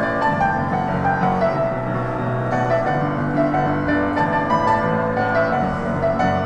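Acoustic piano playing a pop song, with many overlapping notes and chords moving continuously without a break.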